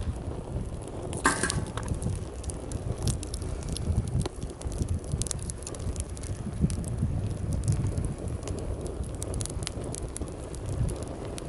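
Wood campfire crackling with scattered sharp pops over a steady low rumble of sea waves. A brief brighter hiss comes about a second in.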